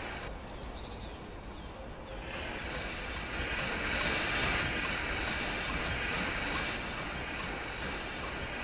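Steam-hauled passenger train of Strasburg Rail Road locomotive #90 running on the rails: a steady low rumble with a hiss that swells about three seconds in and eases near the end.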